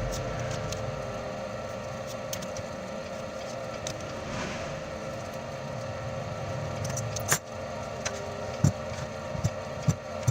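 A steady mechanical hum, with a few sharp metallic clicks and taps in the second half.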